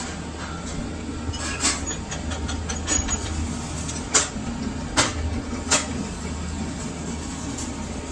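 Workshop machinery running with a steady low hum, broken by about four sharp knocks, the strongest a little past four seconds in and at five seconds.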